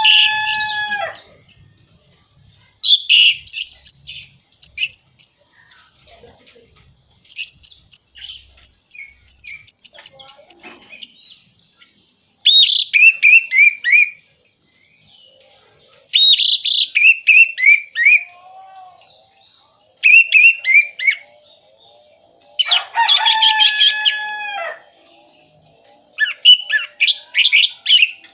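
Orange-headed thrush singing loud phrases of rapid whistles and twitters, about eight bouts with short pauses between them. Several bouts end in a run of falling notes.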